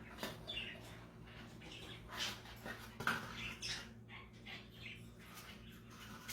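A pet bird making a string of short squawks and chirps, irregularly spaced, over a steady low hum.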